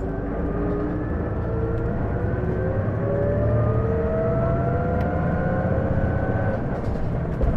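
Interior running sound of an Isuzu Erga city bus (PJ-LV234L1) pulling away under acceleration. A whine with several parallel tones rises steadily in pitch over the engine's rumble, then fades out near the end. This is the abnormal whine the bus makes every time it accelerates, which the owner likens to an automatic-transmission whine and suspects comes from the transmission.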